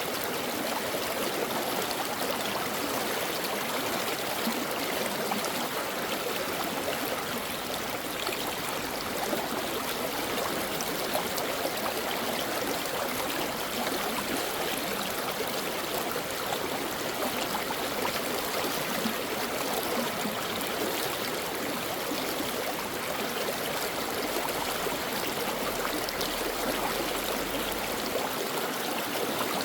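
Brook water running steadily over rocks, an even rushing with fine trickling and gurgling.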